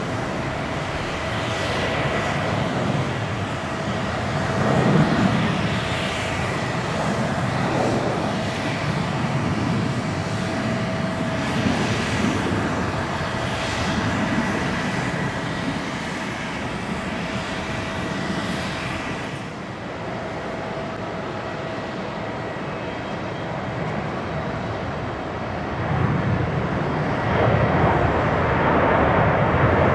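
Jet airliner engines at takeoff power: a loud, continuous roar with a steady whine through it, the sound sweeping in slow waves. The high end drops away about two-thirds through, and the low roar swells again near the end.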